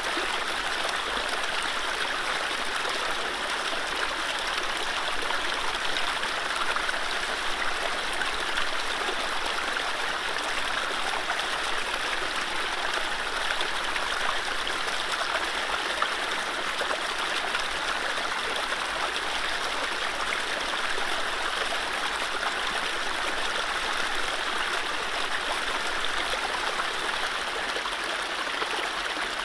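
Mountain stream running steadily over low rapids: a continuous rushing and splashing of water with no birdsong.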